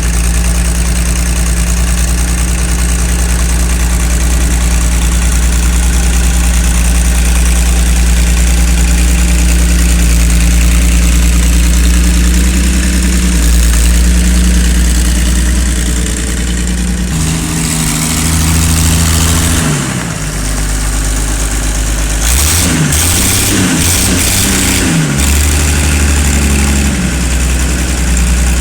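Ford 6000 Commander tractor's six-cylinder engine running after its rebuild and reassembly. It idles steadily at first; from a bit past halfway the engine speed shifts up and down several times, then settles again near the end.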